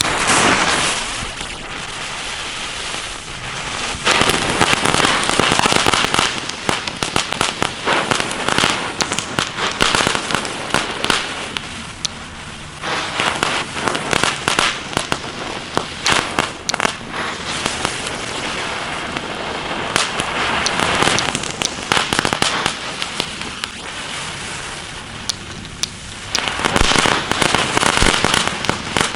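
Knatterblitze, small category 1 crackling firecrackers, going off one after another: a dense, continuous crackle of many sharp pops that swells and eases in several louder waves.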